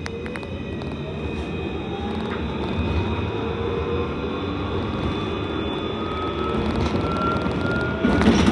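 Alstom Citadis C Class tram heard from inside, accelerating away from a stop: its traction motor whine rises steadily in pitch over the low rumble of wheels on rail. A burst of clattering near the end.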